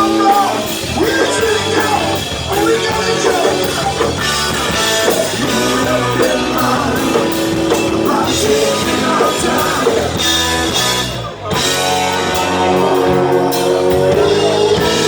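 Live rock band playing, with guitar to the fore and some singing. The band drops out for a moment about eleven seconds in, then comes straight back.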